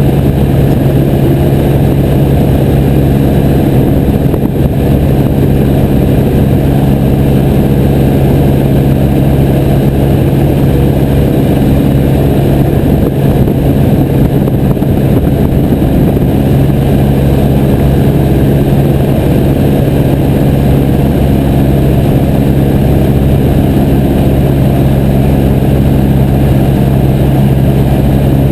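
Piper J3 Cub's engine and propeller running steadily in flight, a constant loud drone with no change in pitch.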